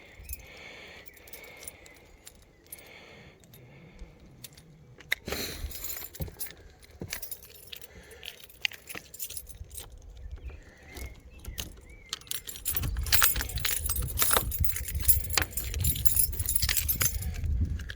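A bunch of keys jangling and clinking as they are pulled from a pocket and handled, with scattered clicks and knocks; the jingling is loudest and densest in the last few seconds.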